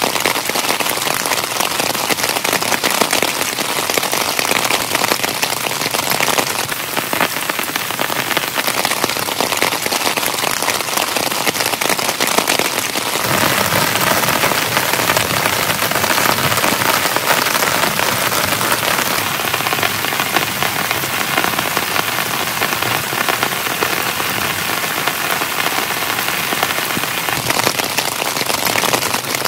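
Heavy rain falling steadily on a tent. The sound shifts in character a few times, becoming fuller about 13 seconds in.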